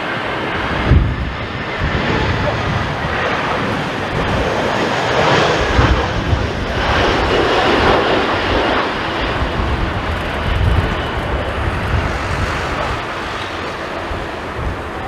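Jet airliner's engines: a loud rush that swells in the middle and eases off, over gusty wind rumbling on the microphone.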